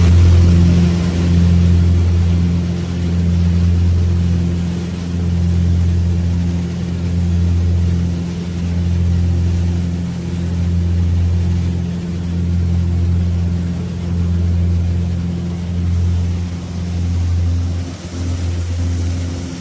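A steady low machine hum with several fixed tones, swelling and fading about every two seconds.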